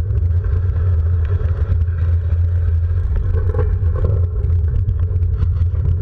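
Loud, steady low rumble of a ride in motion, with scattered clicks and rattles throughout.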